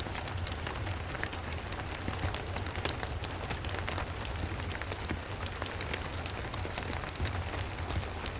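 Steady rain with a dense scatter of sharp, irregular clicks and crackles from a wood fire, over a steady low rumble.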